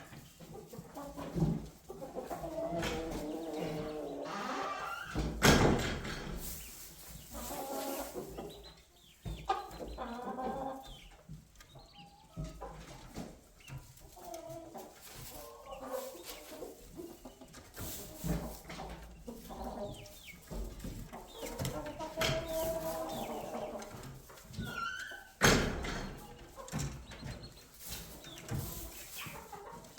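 Chickens clucking and murmuring in a coop, low wavering calls that come and go, broken by a few sharp knocks.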